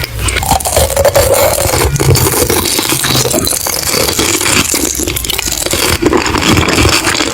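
Close-miked chewing and crunching of food: a dense, continuous run of crackles and clicks.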